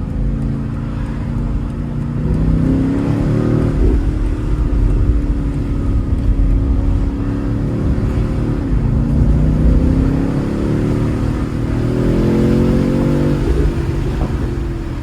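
BMW car engine accelerating hard through the gears. Its pitch climbs and drops suddenly at an upshift about four seconds in, then climbs again and drops at another shift near the end.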